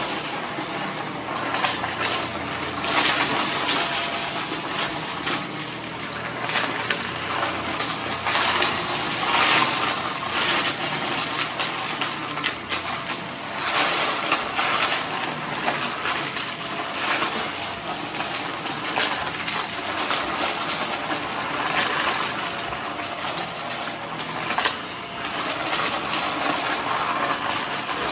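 Vacuum cleaner running, with a steady rush of air and a faint motor whine, surging louder every second or two as it sucks up a scattered mess.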